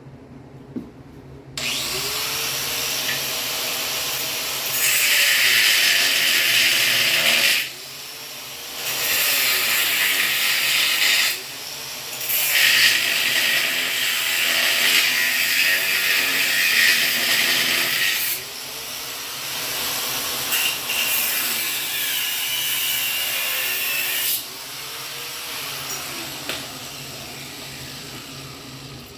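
Hand-held power tool working metal, running in several spells of a few seconds each with louder stretches under load. It starts about a second and a half in and stops about four-fifths of the way through.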